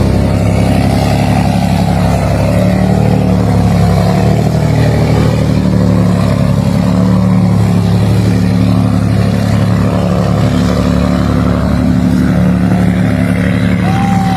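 The boat's twin Scania 477 HP marine diesel engines running flat out, a loud, steady drone.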